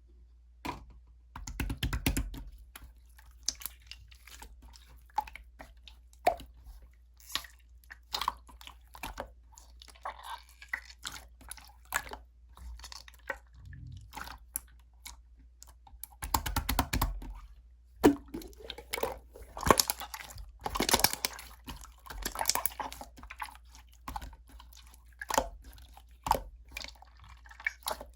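Clear slime being squished and poked by hand, making many sharp sticky clicks and pops, with a few longer crackling stretches.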